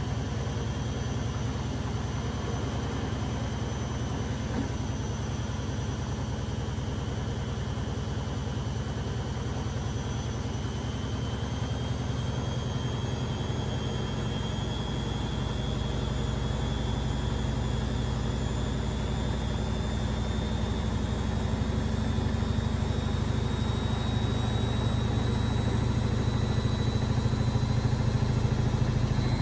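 Beko WMB 71643 PTE washing machine spinning up in its spin cycle: the brushed motor's whine rises slowly in pitch from about ten seconds in, and the running grows louder as the drum speeds up.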